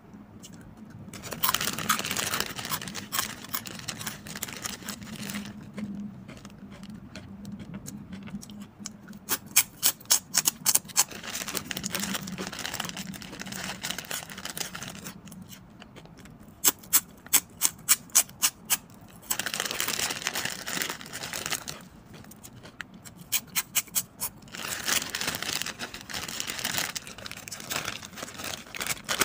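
Crunchy chicharon baboy (deep-fried pork rinds) being chewed, with several bursts of rapid crackling crunches, and a thin plastic bag crinkling as the pieces are handled.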